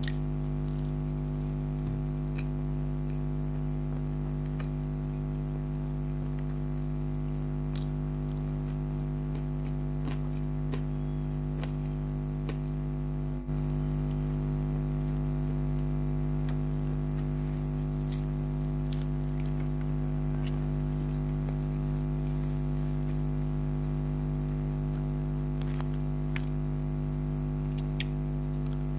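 Close-miked chewing and wet mouth sounds of someone eating, with small scattered clicks, over a steady low hum.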